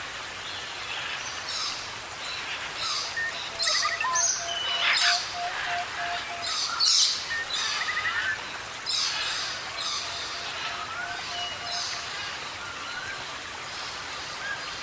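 Several forest birds calling at once. One gives a run of about eight evenly spaced low piping notes, heard twice, among assorted chirps, short whistles and higher notes.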